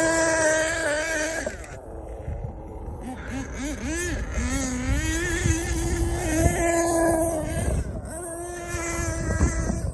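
Small two-stroke nitro engine of an HPI Savage X 4.6 RC monster truck running at high revs, with a few quick throttle dips and pick-ups around the middle before holding steady high revs again.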